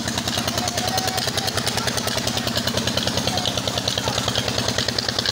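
Old tube well engine running steadily at an even speed, with a fast, regular firing beat.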